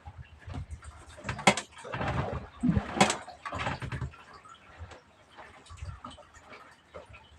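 Irregular knocks and clatter, densest and loudest from about one and a half to three seconds in, then fainter scattered ticks.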